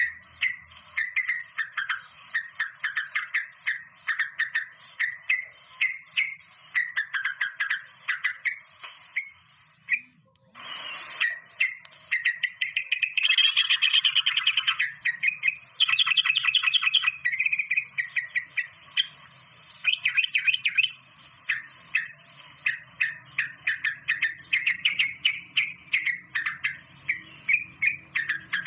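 Birds chirping in quick, repeated high notes, several to the second. About ten seconds in the chirping briefly drops away, then a louder, harsher chattering runs for several seconds before the quick chirps return.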